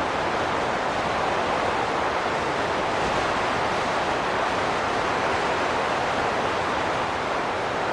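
Wind blowing in a steady, even rush, with no gusts or whistling tones.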